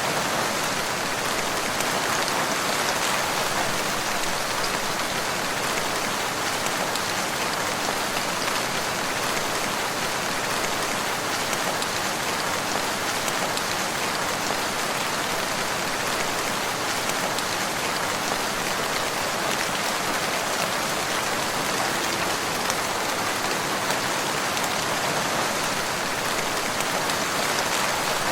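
Steady, heavy rain falling on surfaces, a dense even patter with no let-up.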